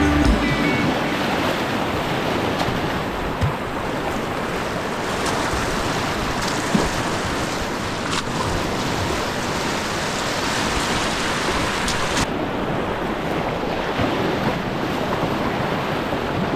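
Whitewater rushing steadily in a river rapid, mixed with wind on the microphone; about twelve seconds in, the sound turns suddenly duller as its hiss drops away.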